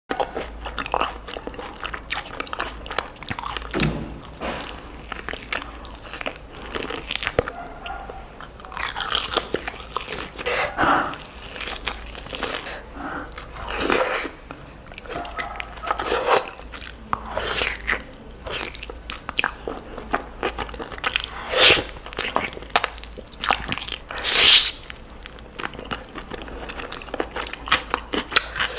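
Close-miked ASMR eating: a person taking big bites of mutton curry and chicken liver curry and chewing, a dense run of irregular mouth clicks and bites with a few louder bites here and there.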